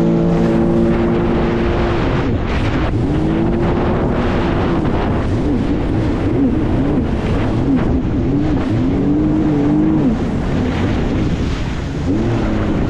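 Jet ski engine running at speed, its pitch holding, then wavering up and down rapidly through the middle and dropping briefly near the end before climbing again, over a steady rush of wind and water.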